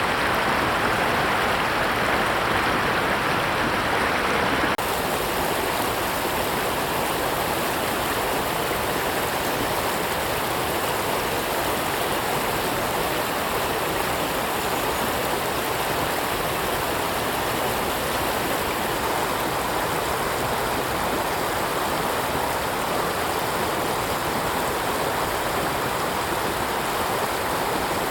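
Steady rushing of flowing water, a stream or waterfall, with a cut to a slightly quieter stretch of the same rush about five seconds in.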